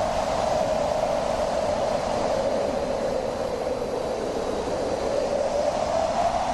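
Wind blowing steadily, with a hollow howling tone that slowly sinks a little in pitch and rises again.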